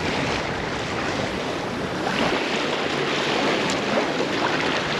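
Steady wind on the microphone mixed with the wash of waves on the water.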